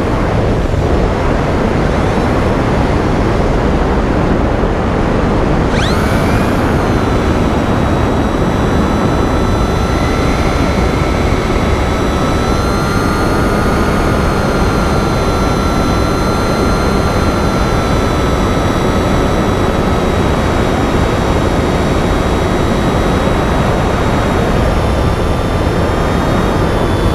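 Wind rushing over the onboard camera of a Finwing Penguin FPV model plane in flight. About six seconds in, its electric motor and propeller come up to a steady whine that holds, sagging slightly just before the end.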